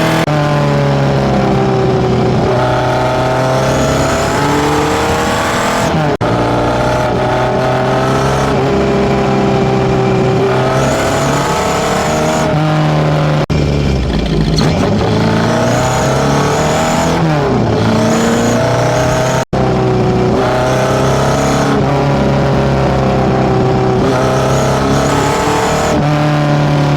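Tuned Datsun B210's A15 four-cylinder engine, breathing through FCR41 motorcycle carburettors and a one-off 54 mm stainless exhaust, revved up and down again and again; the pitch climbs and falls over a few seconds at a time. The sound breaks off abruptly a few times.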